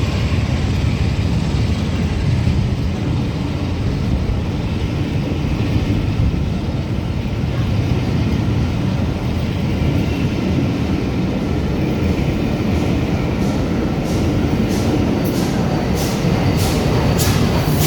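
Steam locomotive running with a steady low rumble. About two-thirds of the way in, a regular beat of short, sharp hissing strokes sets in, a little under two a second.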